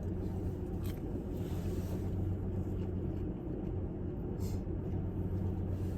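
Steady low hum of a car's idling engine heard from inside the cabin, with a couple of faint clicks.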